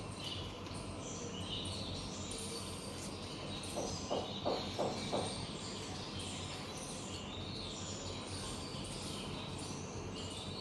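Birds chirping in the background over a steady hiss, with a quick run of four or five short handling sounds about four to five seconds in.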